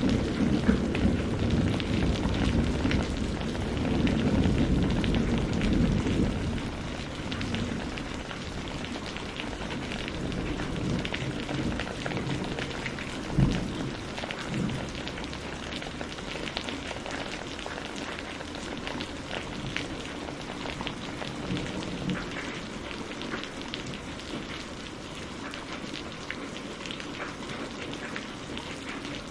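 Steady rain pattering on surfaces, with fine ticks of individual drops. A low rumble of thunder dies away over the first several seconds, and a single short low thump comes about 13 seconds in.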